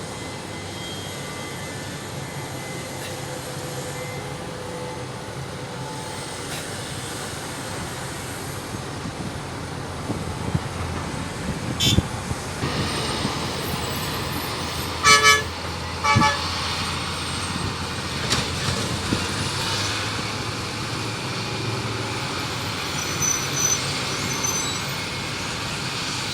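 Heavy mining machinery engines running steadily, getting louder about ten seconds in, with two short vehicle-horn toots about a second apart near the middle.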